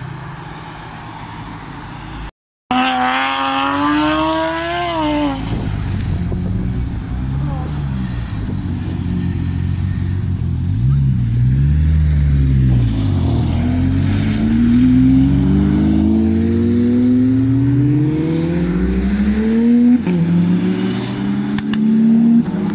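Sports car engines revving and accelerating past one after another, the pitch sweeping up and down with each blip of the throttle. Later comes a long rising engine note as a car pulls away hard. The sound cuts out briefly about two seconds in.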